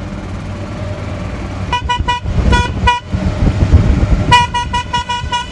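Golf cart horn tooted in short beeps: a few about two seconds in, then a quick run of about six near the end.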